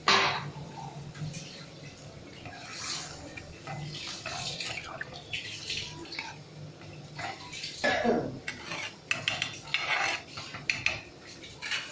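Metal spoon clinking and scraping against a cooking pot with some sloshing of liquid, as water is stirred into fried curry masala; a loud clatter right at the start and a quick run of clinks near the end.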